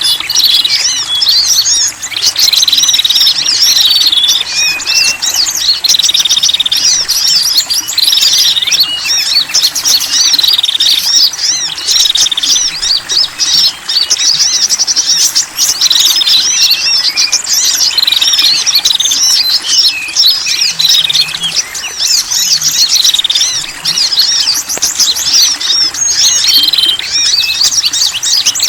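Recorded calls of small wild songbirds, several kinds layered together, played as a bird-trapping lure: a dense, continuous chatter of high chirps and trills.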